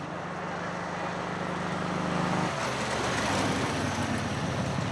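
Vintage racing car engine pulling hard up the hill, its note rising steadily. About two and a half seconds in the note breaks off into a rougher, louder sound that peaks soon after.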